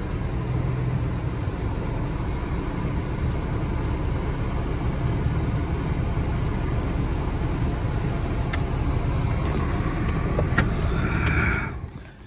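Supercharged Camaro's engine running at low speed with a steady rumble, cut off shortly before the end.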